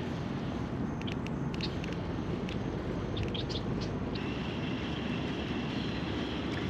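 Outdoor lake ambience: a steady low rumble with scattered short high chirps, and about four seconds in a steady high drone joins in, like an insect or frog calling.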